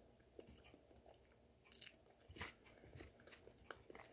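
Faint chewing of a mouthful of food with closed lips, with a few soft crunches.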